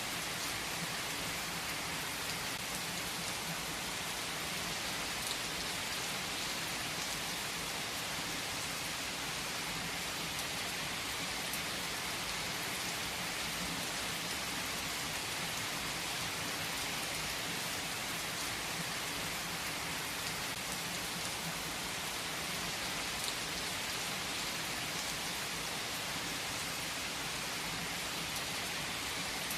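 Steady rain falling in an even hiss, with a few sharper drop ticks here and there.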